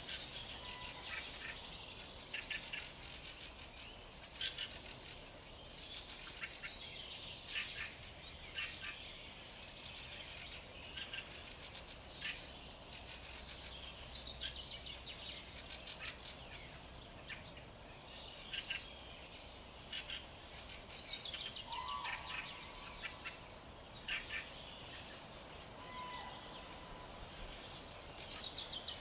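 Several birds chirping and singing at once: overlapping high-pitched calls and quick trills with no break, with a few short, lower whistled notes now and then.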